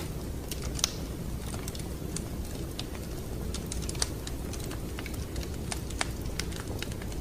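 Wood fire crackling: irregular sharp pops and snaps over a steady low rumble, with the loudest snap a little under a second in.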